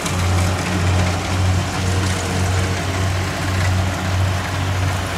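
Kubota DC70 rice combine harvester's diesel engine and machinery running steadily, with a deep hum that swells and fades about every 0.7 s.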